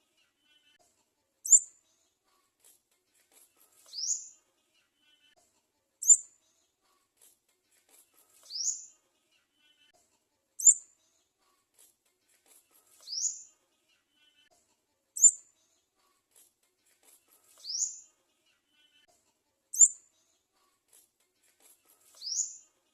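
High bird calls in an exactly repeating pattern: a short rising whistle followed about two seconds later by a sharp chirp, the pair coming about every four and a half seconds.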